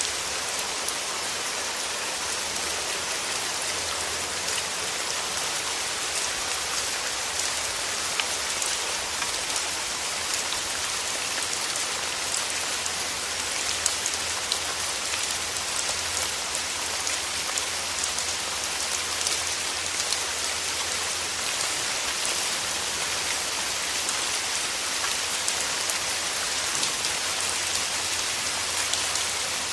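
Steady rain with many close individual raindrops ticking on a surface, an even hiss under scattered sharp drop hits.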